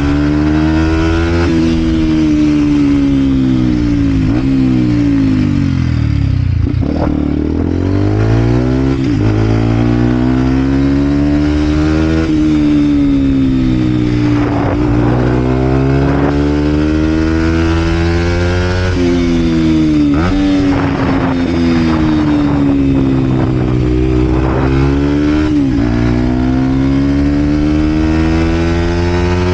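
A Vent Derapage 125 cc four-stroke single-cylinder motorcycle engine with a full Scalvini exhaust, ridden hard: the engine note climbs, drops sharply at each gear change, sags on the throttle-off and climbs again, over and over.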